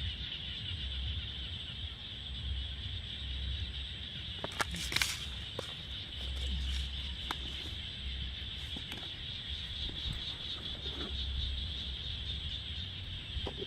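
Outdoor rural ambience: a steady high insect drone throughout, over a low rumble, with a few short clicks or chirps scattered through, one louder about five seconds in.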